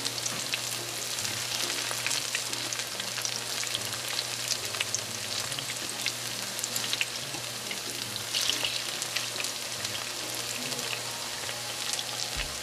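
Battered sweet potato and vegetable fritters shallow-frying in a little oil in a frying pan: a steady sizzle with many small crackling pops.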